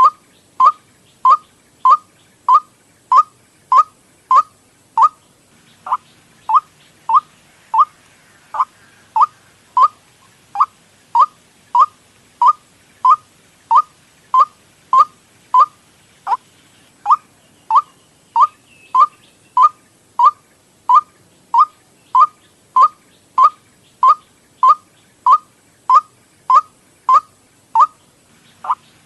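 White-breasted waterhen lure call: a short note sweeping up in pitch, repeated about twice a second in a steady, unbroken series.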